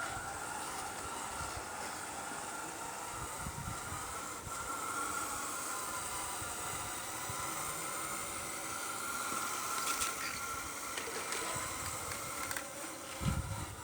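Hydraulic pump of a radio-controlled model excavator running with a steady whine that wavers slightly in pitch, over a hissing noise, with a few low knocks near the end.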